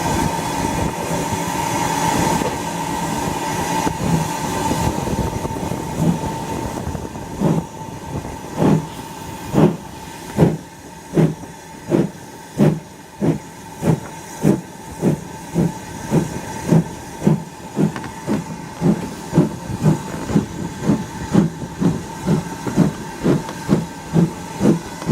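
LMS Ivatt class tank engine 41312 starting away under steam: a steady hiss of steam at first, then exhaust chuffs begin about seven seconds in, about one a second, and quicken to nearly two a second as the train gathers speed.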